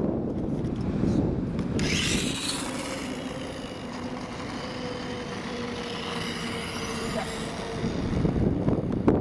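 A 1/8-scale RC motorcycle's motor running, with a whine that holds steady for a few seconds and rises in pitch near the end, over a heavy low rumble and a burst of hiss about two seconds in.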